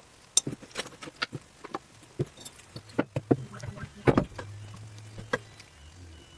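Scattered small clicks and taps of metal engine parts being handled while a piston is fitted to a 2-stroke engine, with one louder knock about four seconds in. A low steady hum comes in just after the knock.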